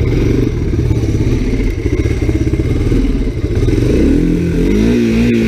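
Honda 250SX three-wheeler's single-cylinder four-stroke engine running; about four seconds in it revs up and then holds a steady higher note.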